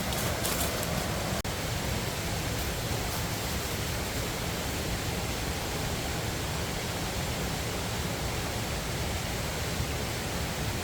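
Waterfall rushing steadily, an even hiss of falling water, with a brief break about a second and a half in.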